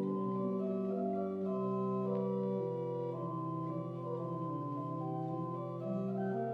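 Organ playing slow, sustained chords, with the bass note moving down about two and a half seconds in.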